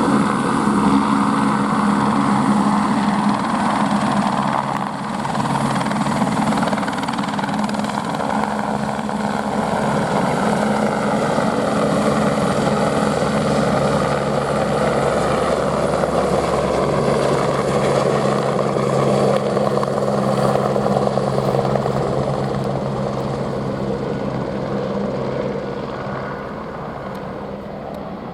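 Airbus AS350 Écureuil helicopter flying with its steady rotor and turbine sound, fading over the last few seconds as it moves away.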